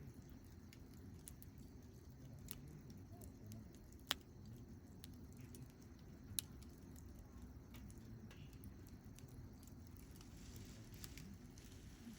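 Wood fire burning quietly, with scattered faint crackles and two sharper pops, one about four seconds in and one a couple of seconds later, over a low steady rumble.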